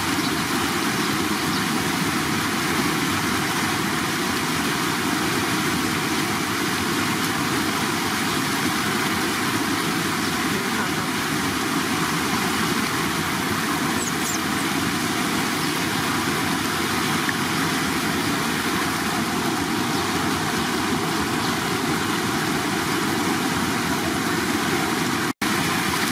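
Steady rush of running water, even and unbroken, cutting out for an instant near the end.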